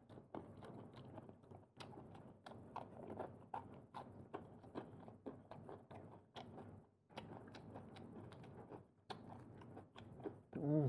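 A person chewing and biting prawn meat close to the microphone: many small wet clicks and smacks. Near the end a short hummed 'mm' of the voice.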